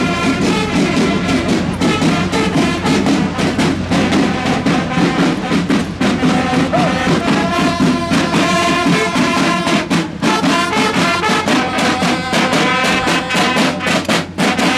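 Music played on brass instruments, a tune of sustained notes over a steady beat.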